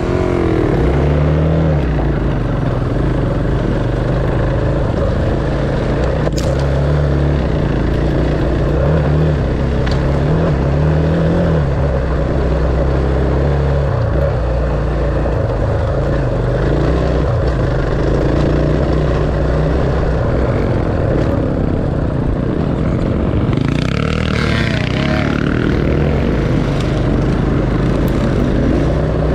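Dirt bike engine running under way, its pitch stepping up and down with the throttle.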